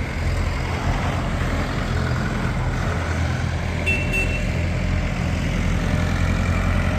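Old tractor engines running steadily as tractors drive past one after another, with a brief high tone about four seconds in.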